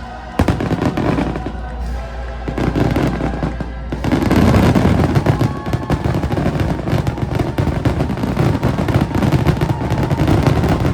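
Fireworks going off over the show's music soundtrack: bangs and crackle, with a loud burst just under half a second in. About four seconds in the barrage turns denser and louder, with rapid crackling and booms.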